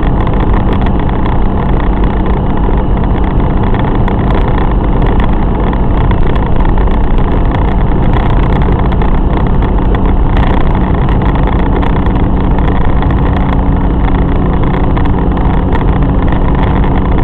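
A BMW E30's M50B20 inline-six engine running at a steady speed while the car drives, with loud, even engine and road noise and no change in revs.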